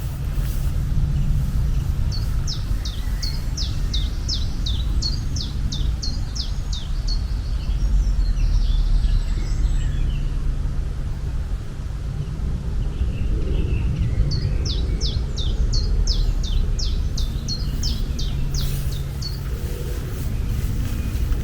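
A small bird singing a fast run of short, high, downward-slurred notes, about three a second. It sings twice, each run lasting about five seconds, over a steady low rumble.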